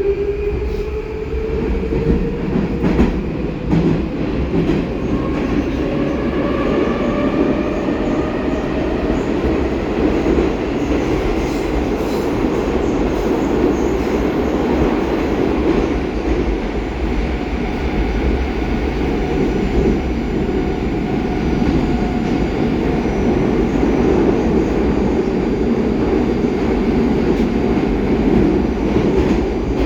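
A Baltiets metro train heard from inside the car while running. The traction drive's whine rises in pitch over the first several seconds as the train picks up speed, then gives way to a steady loud rumble and clatter of the wheels on the rails.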